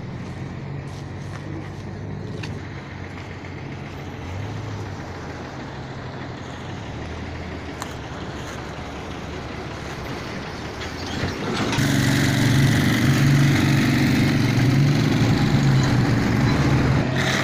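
A motor vehicle engine running steadily, growing louder and fuller about twelve seconds in as it comes closer or speeds up, over street noise.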